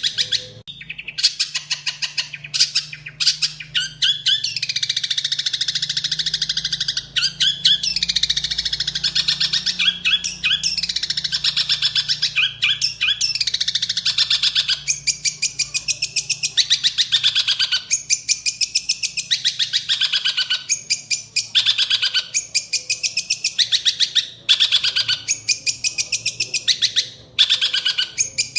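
Long-tailed shrike (cendet) singing a fast, harsh chattering song filled with mimicked tree-sparrow-like notes, in long runs of rapid notes broken by brief pauses.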